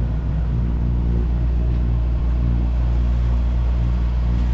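Sailboat's inboard engine running steadily under way, a low even hum.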